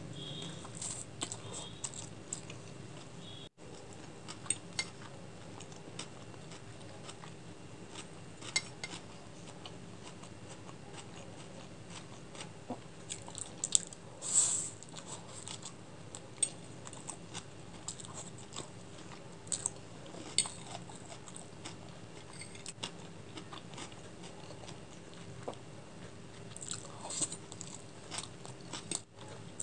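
A person chewing a mouthful of chicken chow mein noodles, wet mouth sounds with many scattered sharp clicks, the loudest about fourteen seconds in.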